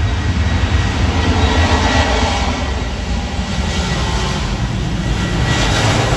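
Aircraft engines running: a loud, steady rumble with a thin high whine over it.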